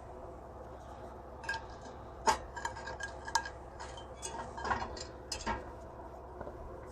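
Metal cookware and utensils clinking and clattering as they are handled, a string of sharp clinks with brief ringing through the middle, the loudest about two seconds in.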